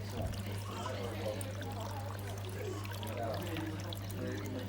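Water trickling and pouring steadily, over a low steady hum, with faint voices in the background.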